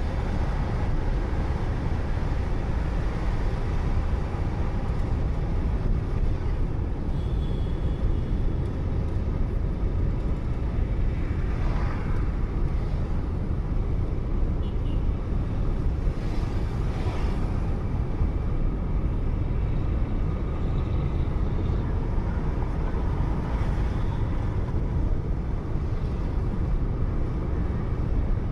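Steady rumble of road and engine noise inside a moving car, picked up by a dashcam, with a couple of brief faint swells near the middle.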